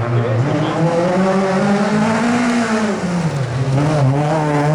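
Rally car engine revving hard on a special stage: the pitch climbs for about two and a half seconds, drops sharply about three seconds in as the driver lifts or changes gear, then climbs again near the end.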